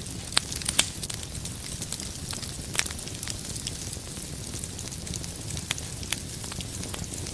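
Wood fire crackling in a fireplace: a steady soft hiss with scattered sharp pops, the loudest less than a second in and another near three seconds.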